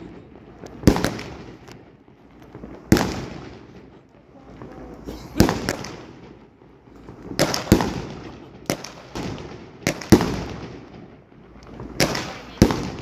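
Fireworks going off: about a dozen sharp bangs at uneven intervals, each trailing off in a rolling echo, coming more thickly in the second half.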